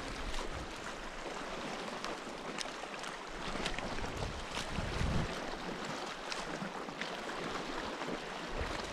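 Wind on the microphone and water washing against a rock ledge, with scattered light clicks and a gust of wind rumble about halfway through.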